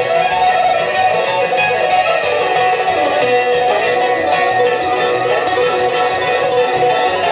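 A bluegrass band playing an instrumental, with plucked strings (guitar and banjo) to the fore and some fiddle.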